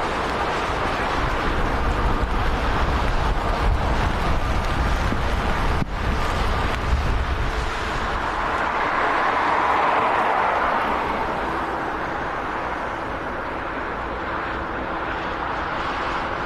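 Airbus A400M's four turboprop engines running on the ground, a steady engine drone with faint propeller tones, swelling about ten seconds in, with wind buffeting the microphone.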